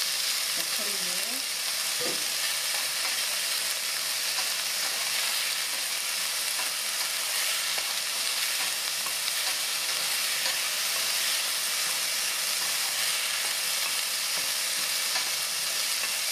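Acorn-jelly strips, garlic and green onion sizzling steadily in hot grapeseed oil in a frying pan while being stirred with a wooden spatula, with a single knock about two seconds in.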